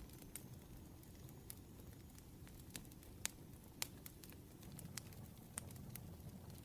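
Wood fire crackling quietly: irregular sharp pops and snaps over a low steady rumble, with two louder pops in the middle.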